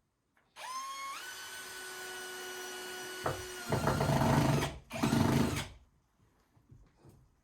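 Power drill spinning up with a stepped rising whine, running steadily for a few seconds, then two loud, rough stretches as it works into the material, about a second and then under a second long, before stopping.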